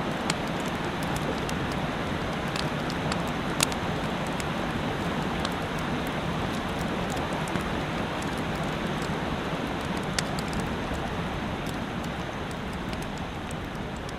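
Steady rushing of a mountain stream, with scattered sharp pops of a campfire crackling over it.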